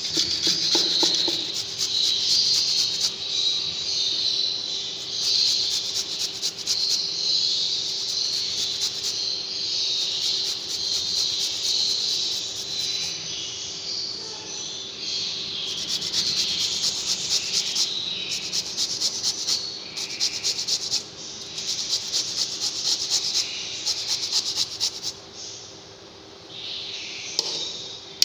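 A group of small pet birds chirping and chattering continuously in high, busy calls, with a steady low hum underneath.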